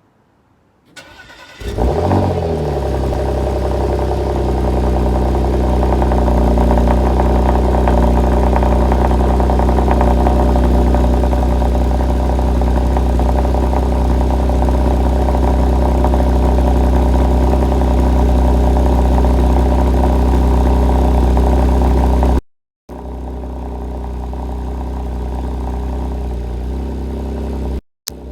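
Porsche Macan S turbocharged V6 cold-started in Sport Plus mode: a brief crank, then the engine catches with a short rising flare about two seconds in and settles into a loud, steady fast idle. The sound cuts out briefly twice later on and comes back quieter.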